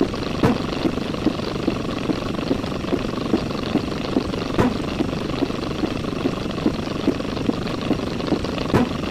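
A steady mechanical running noise with a low, regular pulse about two and a half times a second, like an engine or rotor, and a sharp click about every four seconds.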